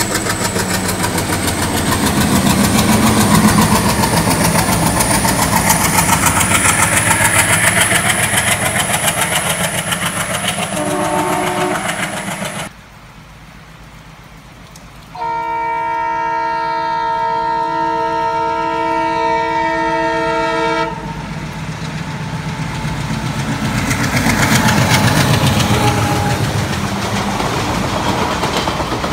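Indian Railways diesel-hauled passenger trains passing at speed. A locomotive and its coaches rush close by with a brief horn toot about eleven seconds in. After a cut, an approaching diesel locomotive sounds one long multi-tone horn for about six seconds, then its coaches rush past, loudest a few seconds before the end.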